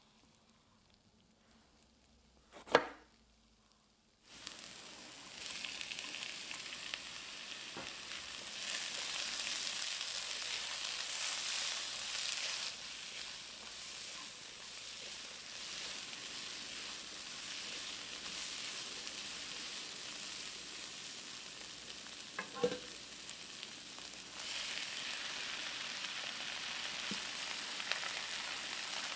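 Stir-fry ingredients sizzling in hot oil in a frying pan, the sizzle starting about four seconds in after a single knock. A utensil knocks once more near the end.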